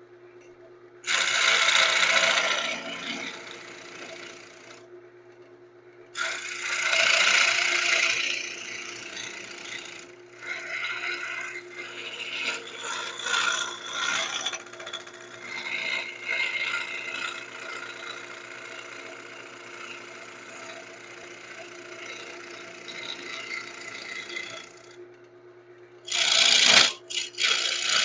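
Wood lathe running with a steady hum while a turning tool cuts the spinning wood, scraping in repeated passes with short pauses between them.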